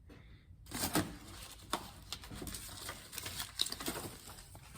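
Rustling and scattered small clicks and knocks of things being handled, with a louder rustle about a second in.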